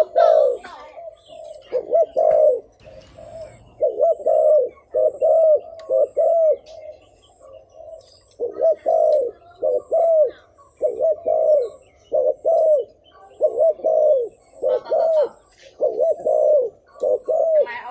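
Spotted dove cooing: runs of short, low, hooting coo notes about two a second, with a short pause midway. This is the rapid 'thúc gù' coo that keepers play as a lure call to draw wild doves.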